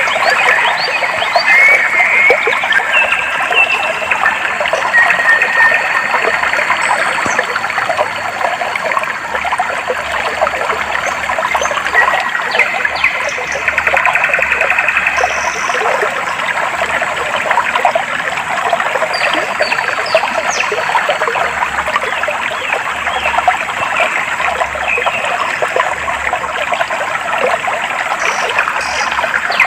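Clear shallow water flowing and babbling steadily, with birds chirping and trilling over it, most busily in the first few seconds.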